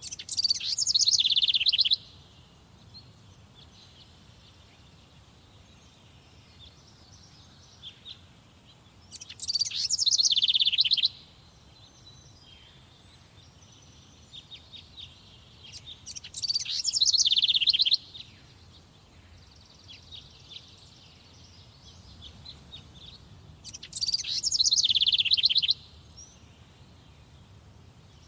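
A songbird in a summer forest repeats the same short, loud song phrase four times, about every seven to eight seconds. Each phrase falls in pitch and ends in a quick flourish. Fainter chirps from other birds come between the phrases.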